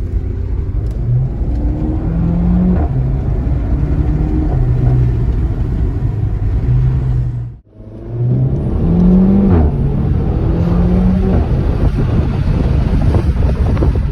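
Renault Mégane RS's 1.8-litre turbocharged four-cylinder engine and exhaust revving hard, the pitch stepping up and down as the car is driven. The sound cuts out for a moment about halfway through, then picks up again.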